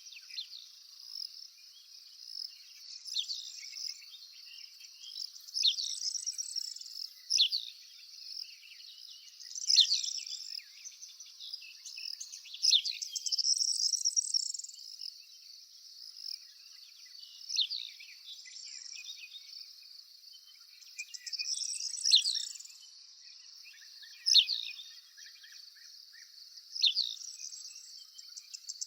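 Wild birds calling: short, high, downward-sweeping chirps every couple of seconds, over a steady high-pitched drone.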